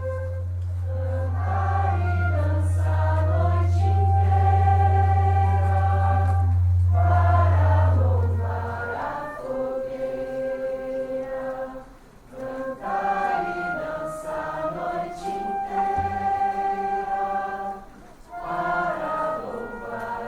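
Group of voices singing a slow song in unison, holding long notes, with short breaks between phrases about twelve and eighteen seconds in.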